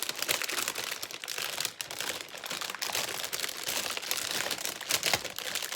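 Thin plastic Lego parts bag being torn open and handled: a run of dense, irregular crinkling and crackling of the plastic, with small ticks of the film.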